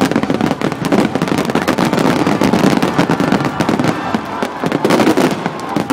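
A dense fireworks barrage: many rapid overlapping bangs and crackles with no let-up. It is the closing barrage of the display.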